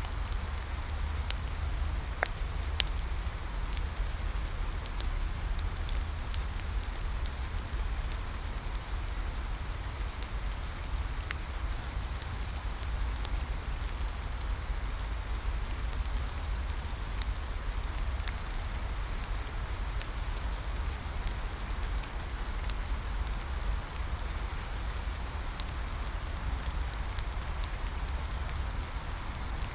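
Steady rain falling, mixed with a wood bonfire crackling, giving scattered sharp pops over an even hiss and a constant low rumble.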